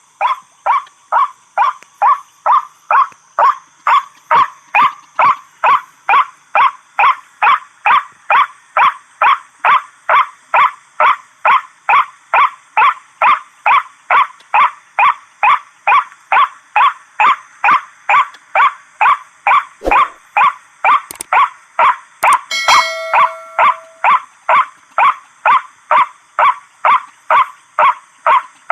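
Calls of a white-breasted waterhen (ruak-ruak): a short harsh note repeated evenly, nearly two a second, without a break. A brief steady tone of a different pitch joins about 23 seconds in.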